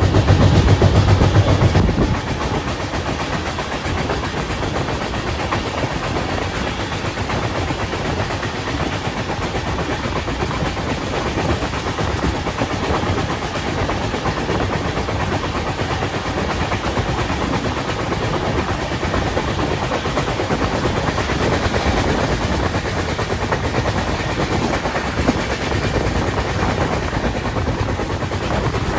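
Passenger train running: a steady rushing and rumbling travel noise, with a heavier low rumble in the first two seconds.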